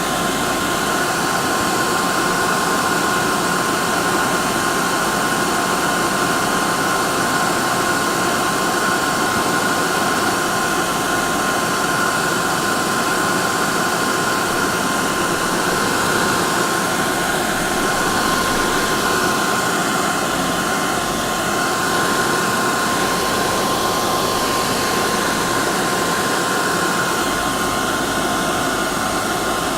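Hair dryer running steadily: a constant rushing of air with a high motor whine, used as continuous white noise to soothe a colicky baby to sleep.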